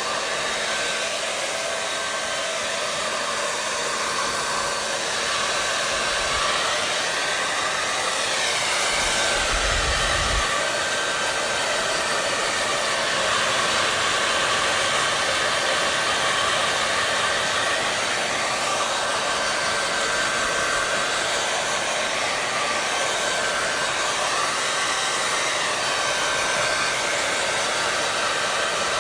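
Hair dryer running steadily: a loud, even rush of blown air with a faint constant whine.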